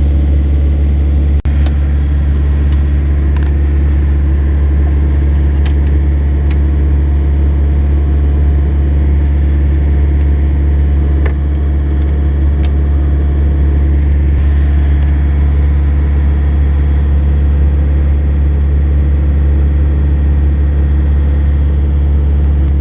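Steady low drone of an idling engine, with a few faint metallic clinks and one sharp click about a second and a half in.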